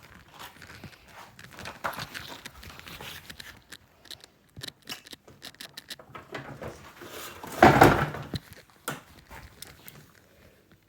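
Irregular rustling and clicks with light knocks, and one louder scraping rustle lasting under a second about three quarters of the way through.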